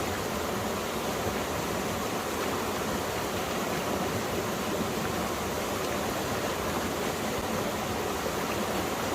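Mountain stream water flowing and splashing over rocks in a steady, unbroken rush.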